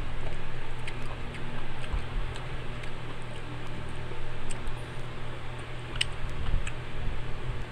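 Close-up mouth sounds of someone eating ripe mango: small wet clicks and smacks of chewing scattered through, the sharpest about six seconds in, over a steady low hum.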